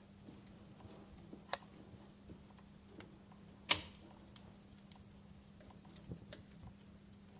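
Wood fire crackling in a fireplace: scattered sharp snaps and pops at irregular intervals, the loudest about three and a half seconds in, over a faint steady hum.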